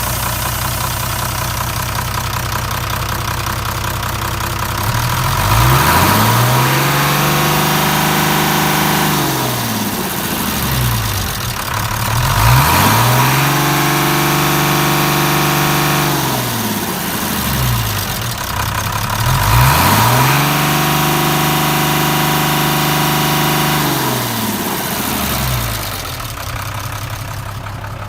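Mitsubishi 6D16 inline-six diesel engine idling, then revved up three times, each rev held for a few seconds before dropping back to idle.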